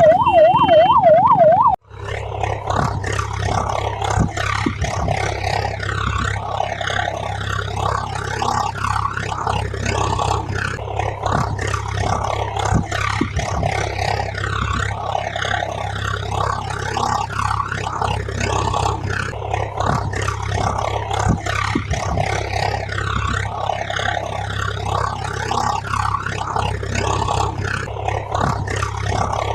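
A siren-like tone warbling quickly up and down, about three cycles a second, for the first two seconds and cutting off abruptly. It gives way to a continuous, even, rough noise over a steady low hum.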